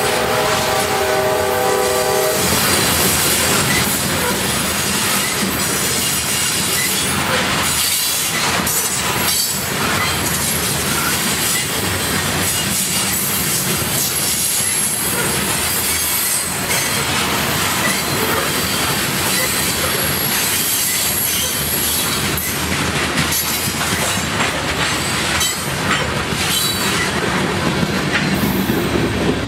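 CSX freight train of covered grain hopper cars rolling past: a steady rumble and clatter of steel wheels on the rails, with clicks over joints. A train horn chord is sounding at the start and stops about two seconds in.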